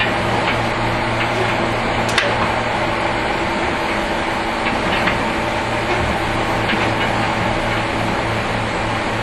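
Running noise inside a JR 115 series electric multiple unit, recorded between two cars: a steady rush of wheels and running gear over a low hum, with a few scattered clicks and knocks.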